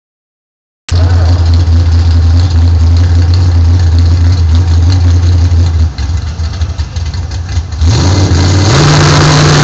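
Loud cammed V8 drag car engine idling, cutting in after about a second of silence, then revving up near the end and holding at higher revs.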